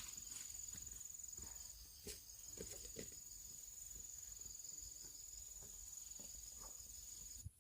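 Insects trilling steadily in the background, one high continuous tone, with a few faint knocks and rustles about two to three seconds in.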